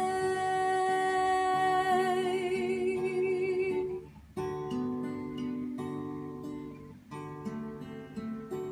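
Acoustic guitar strumming chords under a female voice holding the last sung note with vibrato. The voice stops about four seconds in, and the guitar carries on alone.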